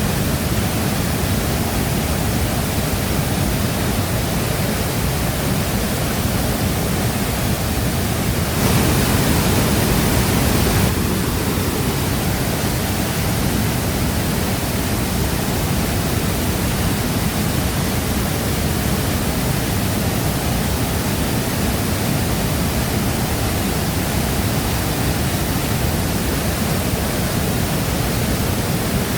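Shifen Waterfall's water pouring steadily, an even, unbroken rush of noise, a little louder for about two seconds around nine seconds in.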